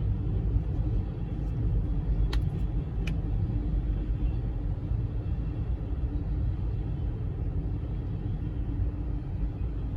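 Steady low vehicle rumble, with two brief sharp clicks about two and three seconds in.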